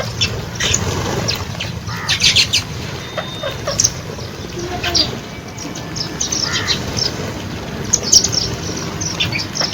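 Many small birds chirping at a feeding station, short high calls overlapping irregularly, with a few louder bursts of chirps along the way.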